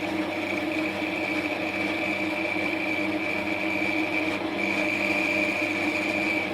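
Wood lathe running steadily, a constant high whine over a motor hum, while teak oil is rubbed onto the turning mallet with a cloth.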